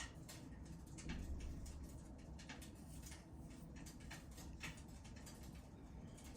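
Wood fire crackling in a fireplace: faint, irregular pops and snaps of burning logs over a low steady rumble.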